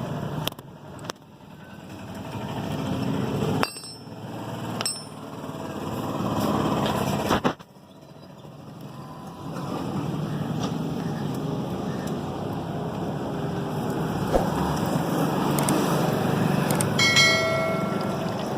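Metal tools and parts handled on a motorcycle engine at the start of an oil change: a few sharp clicks and knocks over steady background noise, and a short metallic ring near the end.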